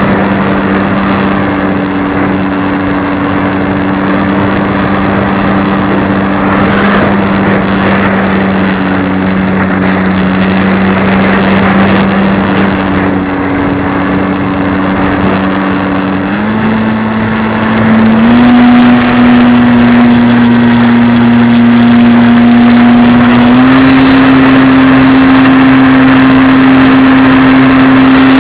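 Radio-controlled model airplane's motor running with a steady hum over a rushing noise. Its pitch steps up three times in the second half and it gets louder about two-thirds of the way in.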